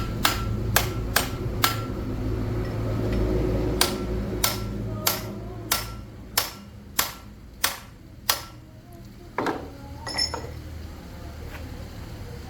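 Hammer blows on metal, each with a short metallic ring: a quick run of five at the start, then eight evenly paced strikes about every half second, and two duller knocks near the end. A steady low hum runs beneath and fades out about eight seconds in.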